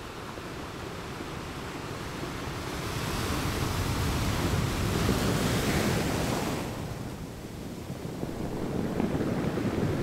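Ocean surf breaking on a sandy beach: a wave's wash builds to a loud hiss for a few seconds, then drops off suddenly about two-thirds of the way in, and the next wave swells near the end.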